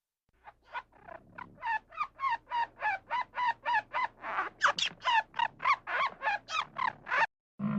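An animal calling in a rapid, even series of short pitched calls, about three a second. The first few calls are fainter, then the series holds steady.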